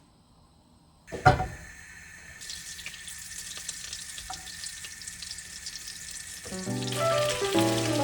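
A sharp knock of a pot or utensil about a second in, then water running from a kitchen tap as a steady hiss. Background music comes in over it near the end.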